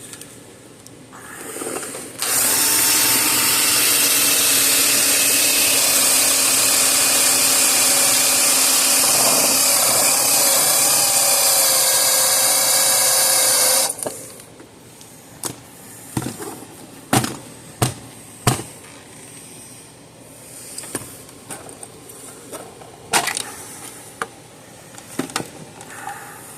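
Electric drill running under load for about twelve seconds, its pitch wavering as it bores, then stopping; scattered clicks and knocks follow.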